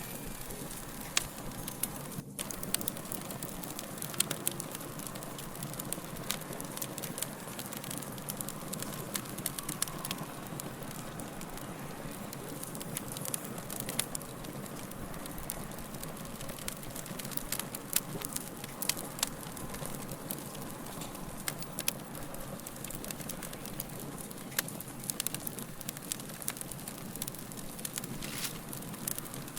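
Fire crackling: an even soft hiss with frequent irregular sharp pops and snaps.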